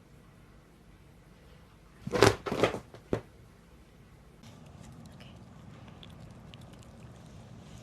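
A sudden clatter about two seconds in: two heavy knocks close together, then a sharper click, over a quiet room.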